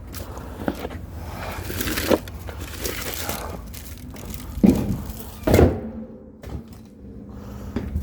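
Split firewood being handled, with scraping and knocking of wood, and two heavy thuds about halfway through.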